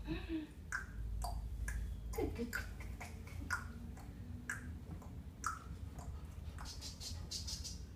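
A series of light, sharp clicks, about two a second, over a low steady hum.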